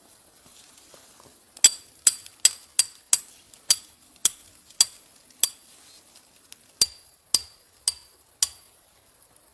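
Repeated sharp metallic strikes, each with a brief bright ring: eight in quick succession, a pause of about a second, then four more.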